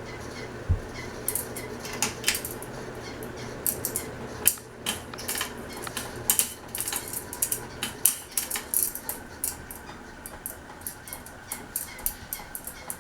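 Sierra ceiling fan running on a test rig, with many irregular light metallic clicks and ticks over a low hum; the hum drops away about eight seconds in.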